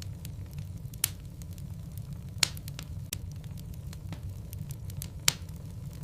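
Wood logs burning in a fireplace, crackling with frequent small snaps and three louder pops, over a low steady rumble.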